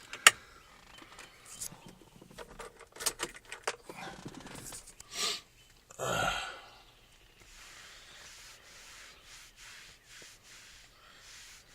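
Clicks and knocks, one sharp and loud right at the start, and a couple of short noisy bursts, then from about seven seconds in a faint steady running sound: the Mule utility vehicle being cold-started and slow to settle.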